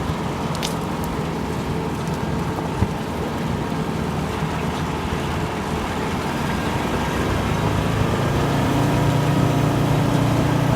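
Homemade all-terrain vehicle's Zaporozhets air-cooled V4 engine running as it drives, growing louder from about seven seconds in as it pulls harder, with a single sharp knock near three seconds.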